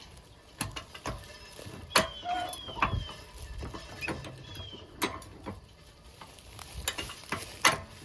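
Irregular sharp clicks and knocks, about eight of them, with a few short high falling chirps in between.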